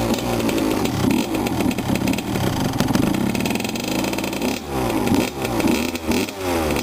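Dirt bike engine revving, its pitch climbing and dropping again several times as the throttle is opened and closed.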